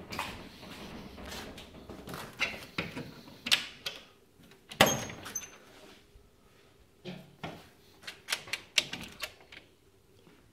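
A bird making clanging knocks at irregular intervals, the loudest about five seconds in with a short metallic ring, then a quick run of knocks near the end.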